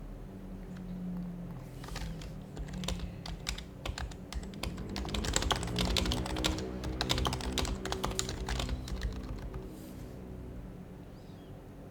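Typing on an HHKB Professional HYBRID Type-S keyboard, its silenced Topre switches giving soft, quick keystrokes. The typing starts about two seconds in, comes thickest in the middle and stops shortly before the end, over a low steady hum.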